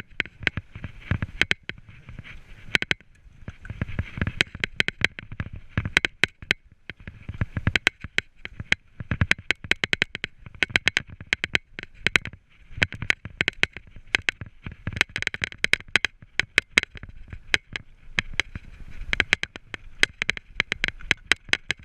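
Mountain bike rattling over a rough trail: a dense, irregular run of sharp clicks and knocks over a steady hiss.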